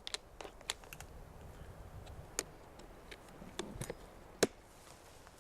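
About a dozen sharp, irregularly spaced clicks and ticks over a faint low background, the loudest about four and a half seconds in.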